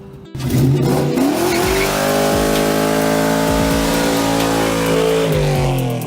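A car drifting: the engine revs up quickly and is held at high revs for about four seconds while the tyres squeal. The revs drop near the end. The sound starts suddenly, a moment in.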